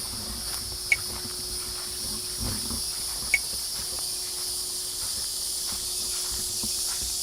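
Steady, high-pitched insect chorus droning throughout, with two short sharp ticks, about a second in and again about two and a half seconds later.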